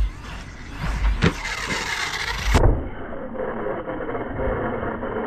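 Arrma Notorious 6S RC stunt truck's brushless electric motor whining, its pitch rising and falling as the throttle is worked, with a sharp knock about a second in. Low thumps run underneath.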